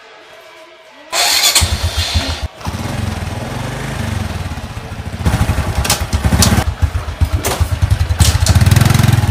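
Honda XRM 125 motorcycle's single-cylinder engine started on the electric starter about a second in, catching at once and running, then revved in repeated blips through the second half.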